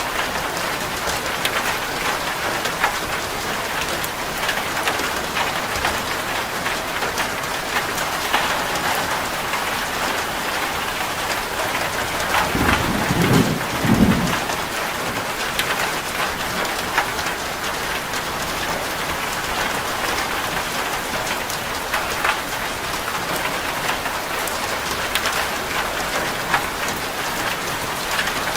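Steady rain drumming on a corrugated zinc roof, with many small drop taps. About halfway through, a short, low rumble of thunder rises briefly under the rain.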